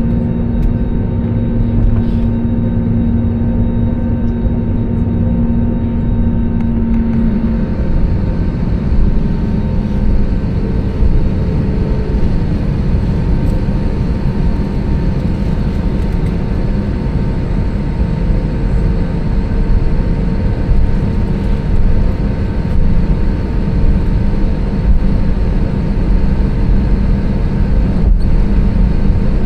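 Steady engine and airflow rumble of an Airbus A320neo heard inside the passenger cabin. About seven seconds in, a steady hum drops out and a higher hiss comes up, then the rumble holds steady.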